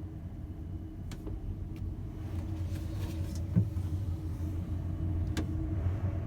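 Steady low drone of a ferry's engines heard from inside the ship, with a constant hum over it. A few sharp clicks and one louder knock come about three and a half seconds in.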